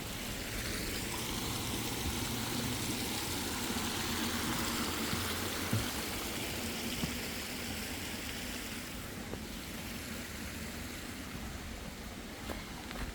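A car passing on a wet road: tyre hiss that swells over several seconds and then fades.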